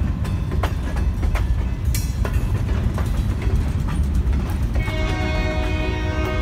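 Covered hopper cars of a freight train rolling past at close range: a steady low rumble broken by sharp, irregular clicks and clanks from the wheels on the rail. Background music comes in near the end.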